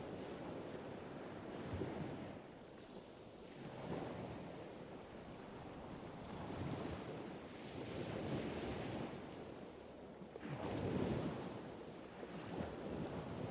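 Water rushing and splashing along a sailboat's hull as it sails, with wind buffeting the microphone, rising and falling in surges every few seconds, the strongest about eleven seconds in.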